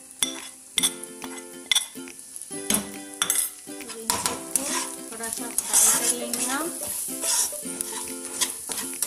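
Steel spatula clicking and scraping in a non-stick kadai as onions, green chilli and ground spices are stirred, over the hiss of the frying masala. Sharp taps come about once a second at first, then give way to denser scraping about four seconds in; light background music with plucked notes plays underneath.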